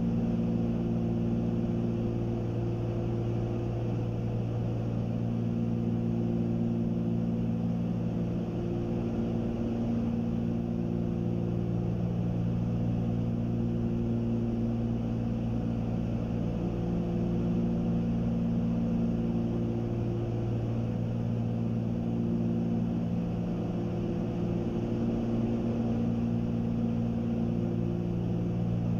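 Cessna 310Q twin engines and propellers droning steadily in flight, with a slow rise-and-fall throb every few seconds as the two engines beat slightly out of sync.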